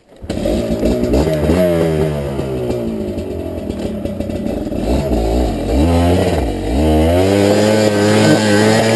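Dirt bike engine starting abruptly and running at varying revs, its pitch rising and falling and dropping twice a little past the middle before holding higher revs near the end.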